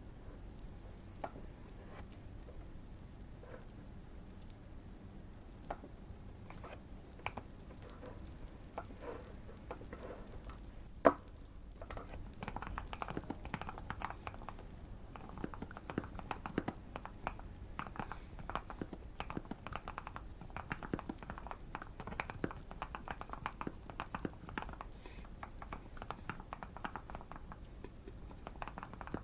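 Typing on a Keychron Q1 mechanical keyboard with Fierce Girl switches: sparse key clicks at first, one sharp loud click about eleven seconds in, then a long run of fast, steady typing. Faint fire crackling sits underneath.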